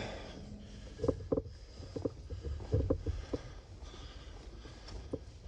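A person moving about and climbing: a string of irregular short knocks and scuffs over a low rumble of the camera being handled.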